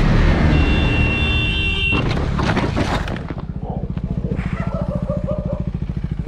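Motorcycle engine running, then from about three seconds in idling with a rapid, even low pulse.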